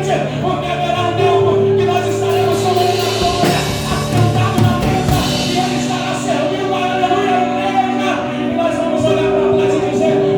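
A live gospel band with bass guitar and drums plays a worship song, with singing over it.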